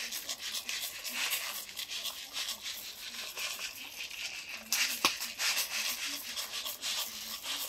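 Paella pan cooking over a wood fire: dense crackling and bubbling, with one sharper crack about five seconds in.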